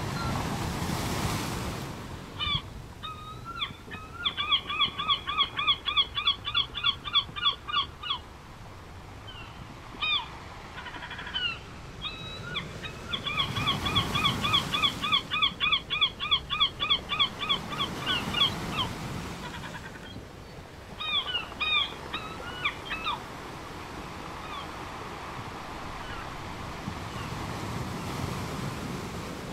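Beach soundscape: surf washing in and out in slow swells, with a bird calling in quick repeated notes in three long runs and a few single calls between them.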